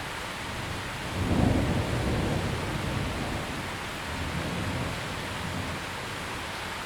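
Steady rain falling, with a roll of thunder that breaks about a second in, peaks almost at once, then rumbles on more softly for a few seconds before fading.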